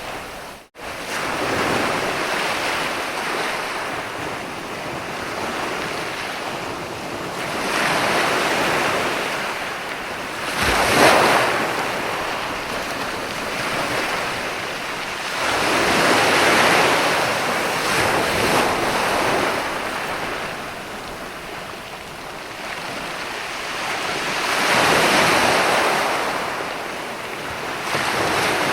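Sea waves breaking and washing up a beach, in a continuous wash that swells with each wave every few seconds. The sharpest, loudest crash comes about eleven seconds in. The sound cuts out for a split second just under a second in.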